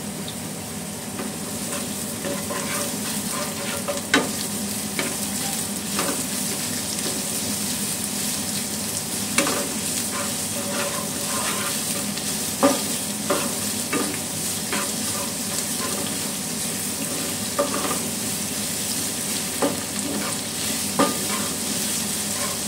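Sliced onions sizzling as they fry in melted ghee (minyak samin) in a wok, stirred with a wooden spatula that knocks against the pan several times.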